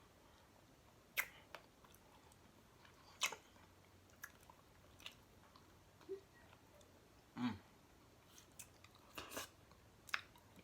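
A person eating close to the microphone: quiet chewing broken by about eight short, sharp mouth clicks and smacks, with a brief low murmur about seven and a half seconds in.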